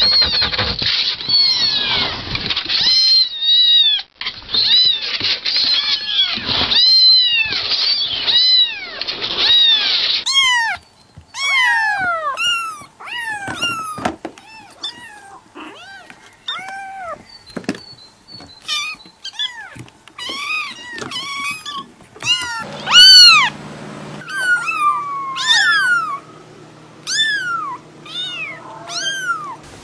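Cats meowing over and over, one short rising-and-falling meow after another. About ten seconds in, the sound quality changes abruptly, as if a different recording has started, and the meowing continues.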